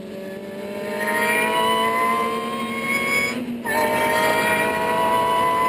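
Ariel Atom's engine heard from the open cockpit, accelerating hard with its pitch rising steadily. About three and a half seconds in there is a quick upshift, a brief break and drop in pitch, and the engine then climbs again in the next gear.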